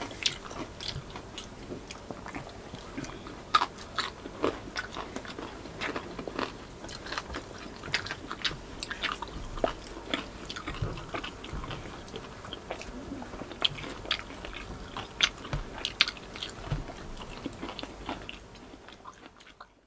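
Close-up eating sounds: biting and chewing crispy fried pork (lechon kawali) with irregular sharp crunches and wet mouth sounds, fading out near the end.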